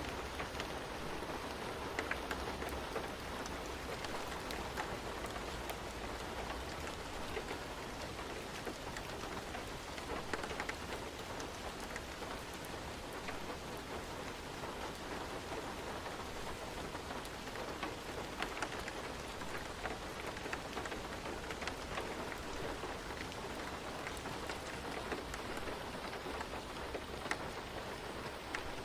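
Steady rain falling on a surface, with scattered drops ticking through a constant hiss.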